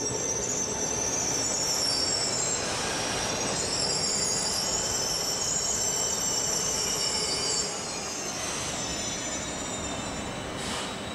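Train running on the rails with its wheels squealing: several thin, high tones over a steady rumble. The sound drops a little about eight seconds in.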